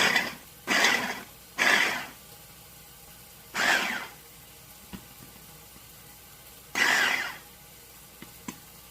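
Princess House immersion blender with its chopper attachment pulsed in several short bursts of about half a second each, chopping carrots, celery and onions.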